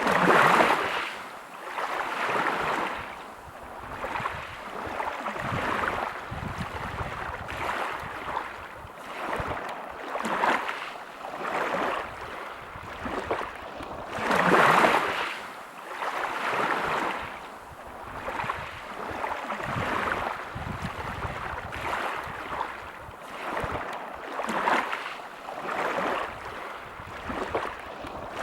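Small waves breaking on a pebble beach, one after another about every two seconds, each a rush of surf with the rattle of pebbles as it draws back. The largest waves break just after the start and about halfway through.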